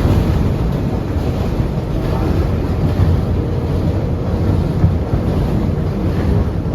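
Steady rumble of an R142A subway car running between stations, heard from inside the car: wheels on rail and running gear making a loud, even, deep noise.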